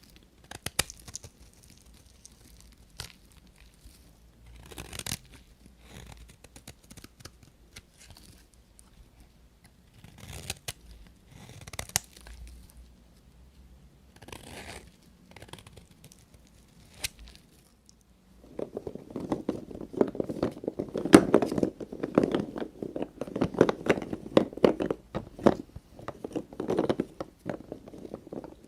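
Bar soap being cut and broken up: a few separate crisp cuts and scrapes, then, from about two-thirds of the way in, a long, louder stretch of dense crunchy crackling.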